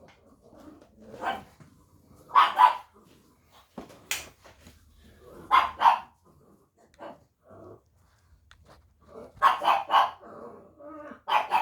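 A dog barking in short bursts, often two barks together, with a quicker run of barks near the end.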